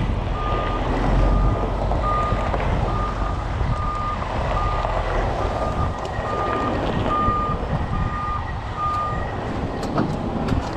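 A heavy truck's reversing alarm beeping steadily, one tone about every 0.6 seconds, over the low rumble of its diesel engine as it backs up. The beeping stops about nine seconds in.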